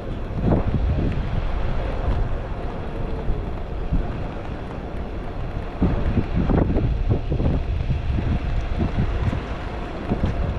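Wind buffeting the microphone of a rider moving along on a bicycle: a steady low rumble with gusty swells.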